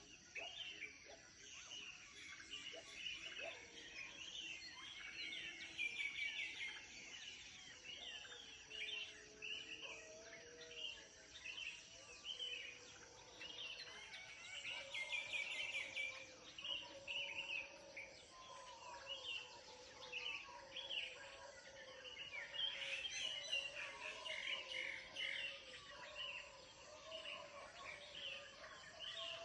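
Morning chorus of many small birds chirping and twittering without a break, calls overlapping, with a few lower, drawn-out calls woven in.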